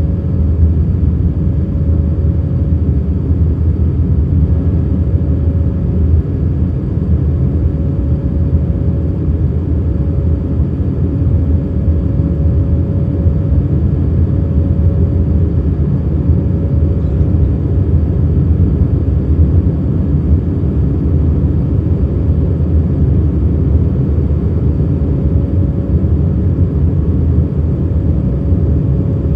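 Steady cabin drone of an Airbus A319 in its climb, mostly low engine and airflow rumble with a faint steady whine over it.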